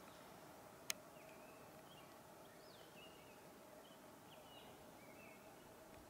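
Near silence with faint, brief, pitch-bending chirps of small birds every second or so, and one sharp click about a second in.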